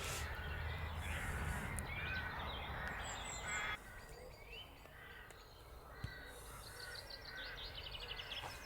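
Birds calling at intervals, among them crow-like caws, over faint outdoor background noise. There is a single sharp click about six seconds in.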